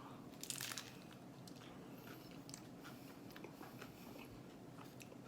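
Person biting into a Crunchtada, a crisp fried tostada shell piled with toppings. One louder crunch comes about half a second in, then faint crunching as it is chewed.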